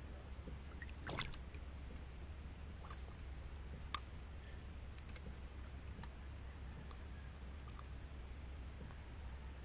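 Quiet ambience on a fishing kayak: a steady low rumble and a faint steady high hiss, broken by a few light taps or clicks, one about a second in and a sharper one near four seconds.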